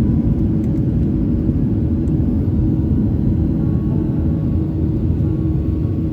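Steady, even rumble of a Boeing 737-800 heard from inside the passenger cabin: engine and airflow noise.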